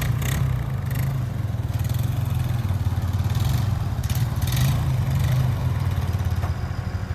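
Honda ATV engine running steadily at low speed.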